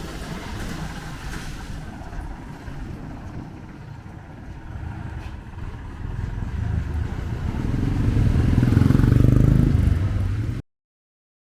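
Street traffic: a vehicle's engine rumble grows louder from about six seconds in, then the sound cuts off suddenly shortly before the end.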